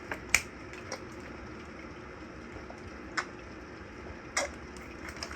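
Heavy rain falling steadily, a constant hiss with about six sharp, irregular ticks of drops striking a hard surface.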